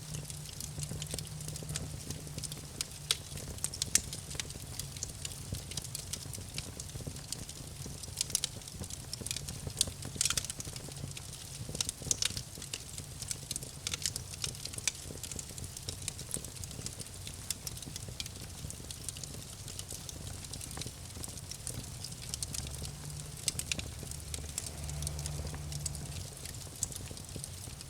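Wood campfire crackling: a dense, irregular run of small snaps and pops, with a few sharper, louder cracks, over a low steady rumble.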